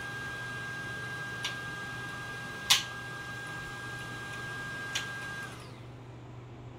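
Xiaomi upright cordless vacuum cleaner running with a steady whine and a few sharp clicks, the loudest in the middle, then cutting off about five and a half seconds in.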